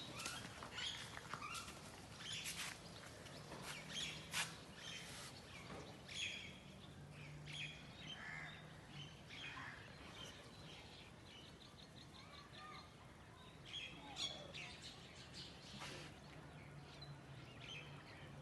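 Many small birds chirping and calling over one another in short, scattered notes, with a quick run of repeated notes about two-thirds of the way in. A faint steady low hum lies underneath.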